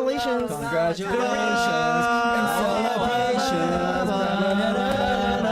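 Several voices singing together without instruments, holding drawn-out notes with a few sliding pitches: an a cappella congratulatory chant.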